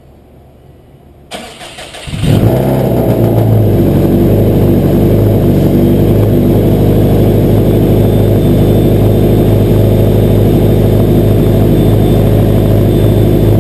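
A freshly built turbocharged Subaru WRX flat-four engine, started for the first time on a base tune: the starter cranks briefly about a second in, the engine catches within a second, then keeps running steadily and loudly.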